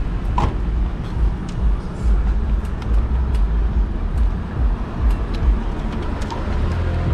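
Street traffic noise from cars passing, heard from a moving bicycle, under a heavy, uneven low rumble.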